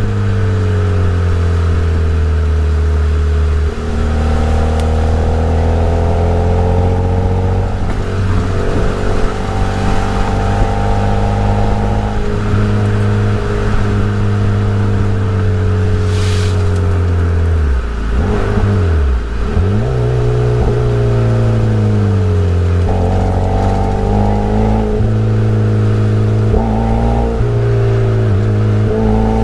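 Daihatsu Copen L880K's 660 cc turbocharged four-cylinder engine and exhaust pulling hard, the revs climbing and stepping down through several gear changes. About two-thirds through the revs drop away steeply and then build again.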